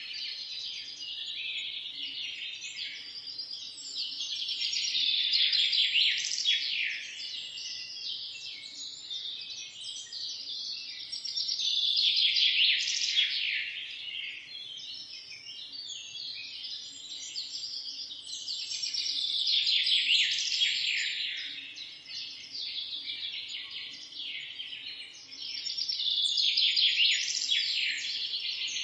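Many small birds chirping and singing at once, a dense chatter of overlapping high calls that swells louder about every seven seconds.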